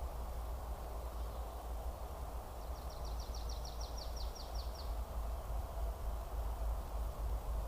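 A songbird sings one fast trill of about a dozen short, falling notes lasting about two seconds, a few seconds in, over a steady low rumble and hiss.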